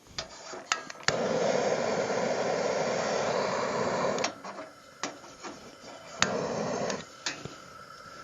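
Propane gas hissing in two bursts, one of about three seconds and a shorter one, between sharp metallic clicks: gas being let through to the turkey fryer's burner while it is lit.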